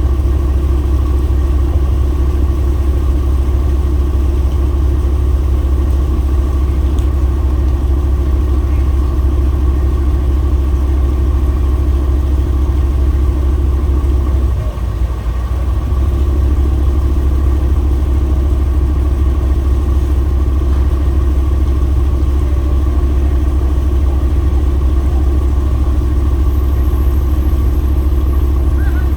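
An engine running steadily, with a strong, even low hum and a brief dip about halfway through.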